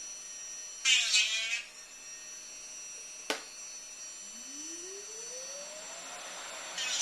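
Small high-speed motors whining steadily, from a jeweller's rotary engraver and dust-collecting vacuum. A short rasping burst of the tool working metal comes about a second in, then a sharp click near the middle. Later a rising whine as a motor spins up, and rasping starts again at the end.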